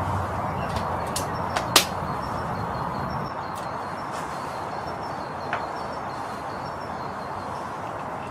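A Brocock Concept PCP air rifle fires once, about two seconds in, with a single sharp crack. A few small clicks come just before the shot, and another faint click follows a few seconds later.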